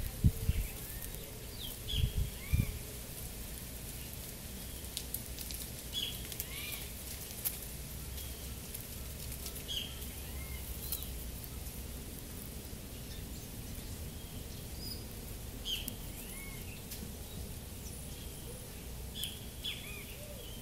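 Outdoor ambience: a bird gives short chirps every few seconds over a steady faint hiss, with a few low thumps in the first three seconds.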